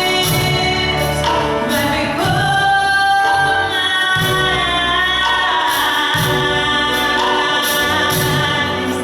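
Gospel music: voices singing together over a band, with a steady beat.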